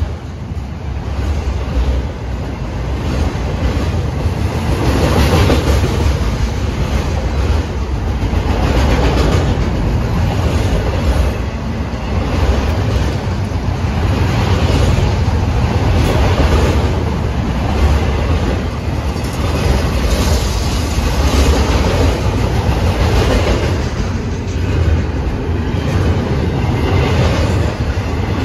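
Freight train cars rolling past, loaded autoracks and then double-stack container well cars: a steady rumble of steel wheels on rail, with a clickety-clack that swells every couple of seconds as each car's wheel sets go by.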